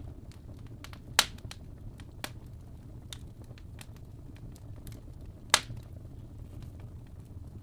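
Fire burning in a fireplace: a steady low rumble with scattered small crackles, and two loud sharp pops, about a second in and again about five and a half seconds in.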